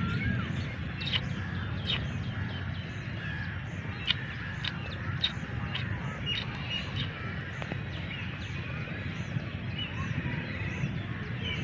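Birds chirping and calling, many short high calls repeating throughout, over a steady low rumble.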